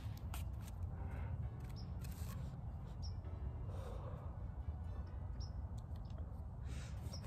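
Faint short high chirps of small birds, a few times, over a steady low rumble of wind on the microphone. A soft breathy exhale of smoke about four seconds in, with a few light clicks.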